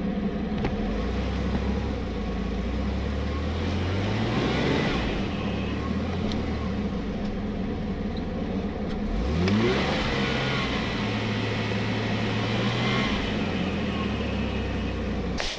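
Vehicle engine working under load on a tow up a snowy hill, its revs climbing about four seconds in, dropping back, then rising quickly near the ten-second mark and holding for a few seconds before easing off.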